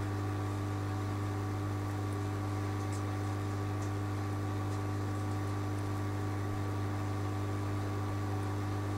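A steady low electrical hum with a few fainter steady higher tones over a light hiss, unchanging throughout, with a few faint ticks.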